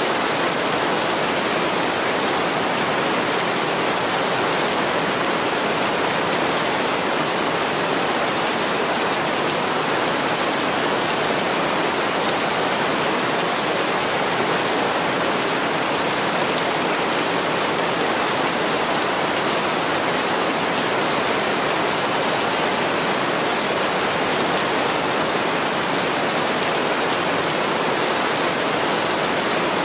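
Heavy, steady rain pouring on a window pane, an even hiss with no distinct drops or gaps.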